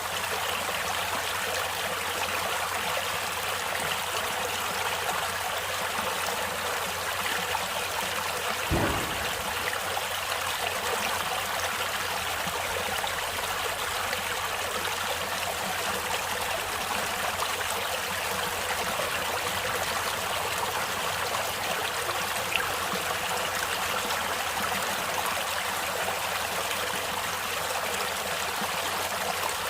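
Natural stream water flowing and trickling steadily, with one brief low thump about nine seconds in.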